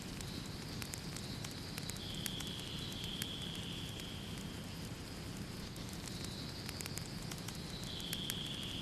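Wood fire burning in a fireplace: a steady low rumble of flames with scattered sharp crackles and pops, and a high hiss that comes and goes every couple of seconds.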